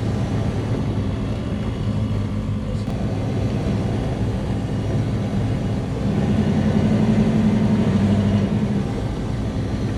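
Big-block V8 of a 1967 Chevelle drag car running steadily while driving, its exhaust drone heard from inside the car. The engine note swells slightly about six seconds in, then eases back.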